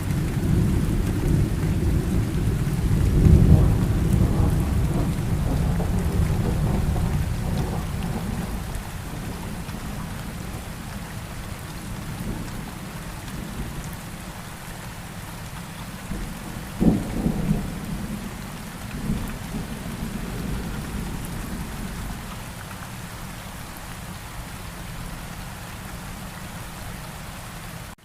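Steady rain with thunder: a long low rumble swells and rolls away over the first several seconds, and a sharper, shorter clap comes about seventeen seconds in.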